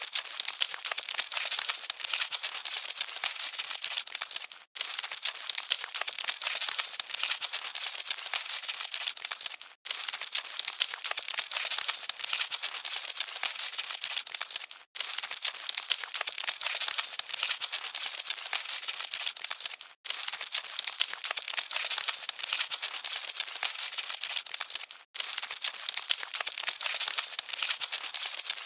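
Dense, fine crackling rustle of cockroaches scuttling, with nothing deep in it. It comes as a short loop that repeats about every five seconds, cutting out briefly between repeats.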